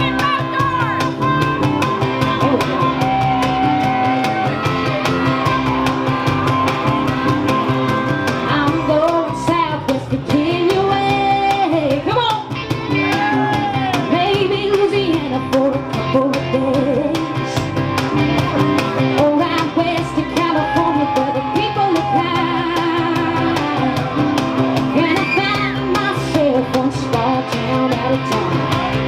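Live band playing a rock song, with a singer over guitar and a steady beat.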